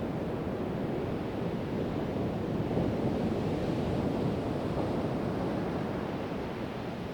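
Pacific Ocean surf: waves washing onto the beach in a continuous rushing wash that swells slightly mid-way and eases near the end, with some wind on the microphone.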